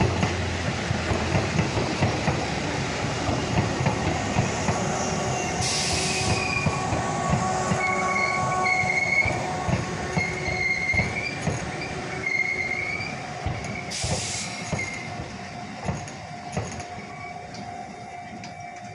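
Tobu 8000-series electric train pulling into a station and slowing to a stop: wheels clicking over the rails, with a high squeal through the middle of the approach and two short hisses, one about six seconds in and one about fourteen. The sound eases off near the end as the train comes to rest.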